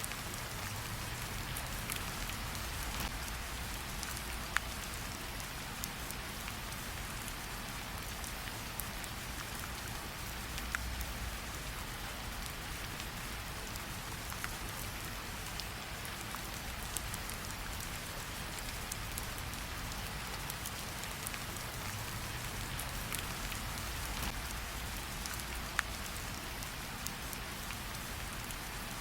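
Steady rain falling, mixed with the scattered sharp pops and crackles of a campfire every second or two.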